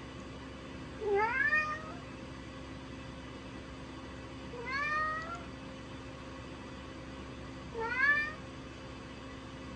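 Domestic cat meowing three times, about three seconds apart, each meow rising in pitch.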